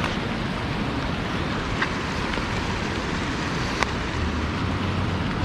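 Steady rush of waterfall and cascading water, with a few small clicks, the sharpest about four seconds in.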